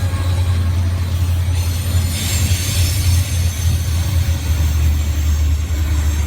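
Freight train rolling slowly past with a steady low rumble, and a brief rise of hissing wheel noise about two seconds in.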